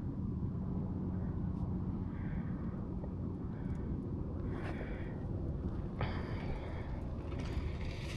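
Dirt bike engine running at a steady low pitch, over a low rumbling noise; the engine note is strongest in the first few seconds and then drops back into the rumble. There is a single sharp click about six seconds in.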